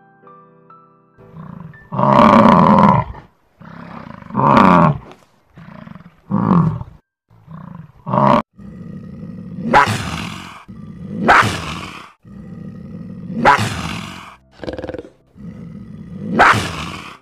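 A run of about nine loud animal bellows and roars, each a second or less and one to two seconds apart, the later ones harsher. They come from large animals, cattle, bison and a cougar among them, over soft background music that is heard alone for the first second or so.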